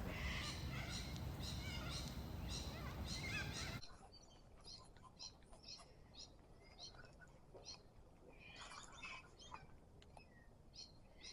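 Small birds chirping in short, repeated calls. For the first few seconds they sit over a steady hiss, which cuts off abruptly about four seconds in, leaving the chirps over a quiet background.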